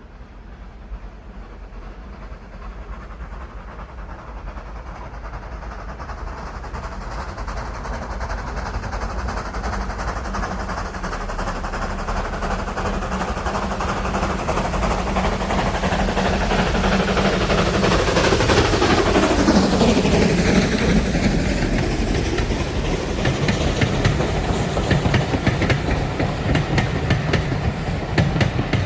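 A steam-hauled train approaching and passing close by. The sound grows steadily louder for about twenty seconds, drops in pitch as it goes past, and then gives way to a rhythmic clickety-clack of carriage wheels over rail joints near the end.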